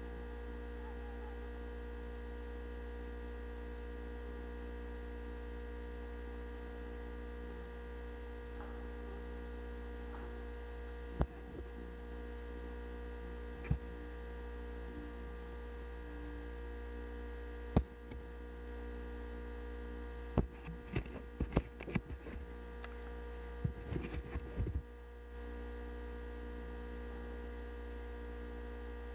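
Steady electrical hum with several sharp clicks, a few spaced out and then a quick cluster of them near the end.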